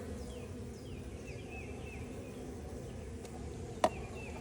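Honeybees buzzing around an open hive, a steady drone, with short high chirps repeating over it and a single sharp click near the end.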